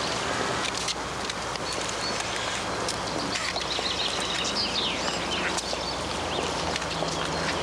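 Birds chirping over a steady outdoor background hiss, the chirps busiest around the middle.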